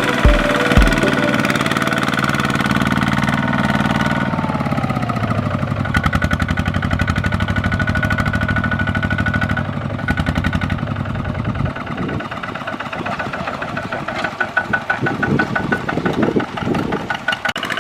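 An engine of a small farm tractor or truck working in mud. Its pitch falls about four to five seconds in, then it runs on with a rapid, rough beat, surging unevenly near the end.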